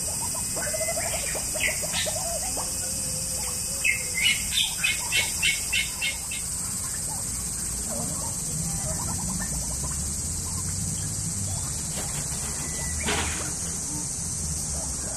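Bird chirping: a quick run of about seven short, sharp chirps about four seconds in, with a couple of single chirps shortly before, over a steady high hiss.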